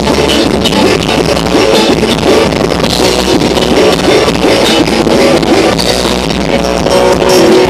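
Loud instrumental band music with a rock feel, guitar over a drum kit, playing without a break.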